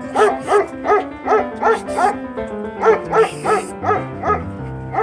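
A dog barking in a quick, even series, about three barks a second with a short break near the end, over background music.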